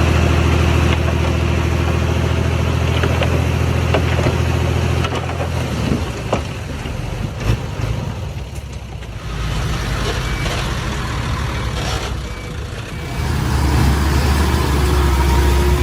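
Heavy diesel engine of earthmoving machinery running steadily, easing off for several seconds in the middle and picking up again about thirteen seconds in. Short high beeps repeat faintly near the end.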